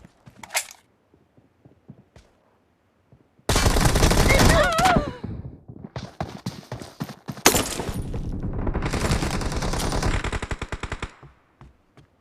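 Video game automatic gunfire: a few faint scattered shots, then about three and a half seconds in a sudden loud stretch of rapid fire that runs for some seven seconds, with a brief letup and one sharper crack partway through, before dying back to scattered shots.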